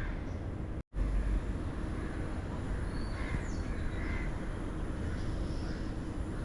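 Crows cawing and other birds calling over a steady outdoor background hiss. The sound cuts out completely for a split second just under a second in.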